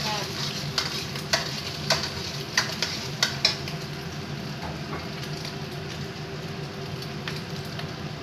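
Diced sausage and scrambled egg sizzling in a wok over a gas flame, with a metal spatula knocking and scraping against the pan about six times in the first few seconds. After that the frying goes on steadily with no stirring.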